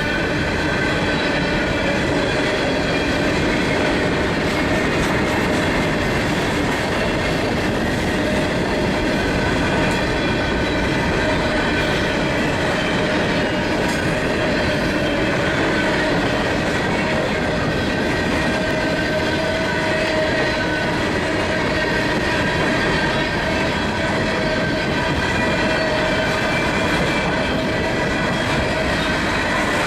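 Train rolling by: a steady, continuous rumble of wheels on rail, with several faint tones held underneath that waver slowly in pitch.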